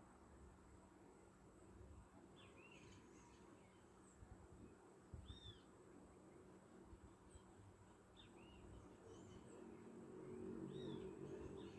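Faint small-bird calls: short chirping whistles that glide up and down, coming every second or two. Beneath them is a low hum that grows louder near the end.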